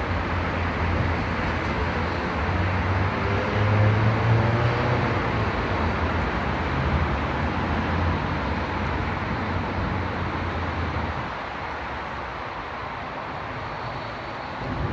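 Steady rushing road noise of a motor vehicle, with a low engine hum that drops away about eleven seconds in.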